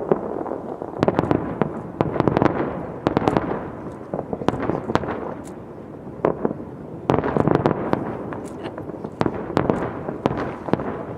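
Aerial fireworks going off: clusters of sharp bangs and pops with crackling in between, with a brief lull near the middle before a fresh volley.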